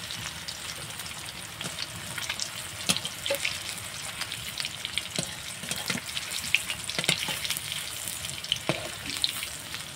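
Squares of steamed egg-and-cauliflower mixture frying in hot mustard oil in an aluminium kadai: a steady sizzle with scattered sharp crackles, while a steel spatula turns the pieces.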